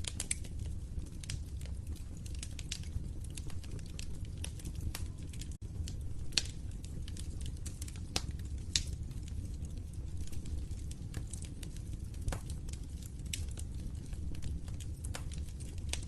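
Wood fire crackling in a fireplace: irregular sharp pops and snaps over a steady low rumble of burning, with a few louder pops. The sound drops out for a split second about five and a half seconds in.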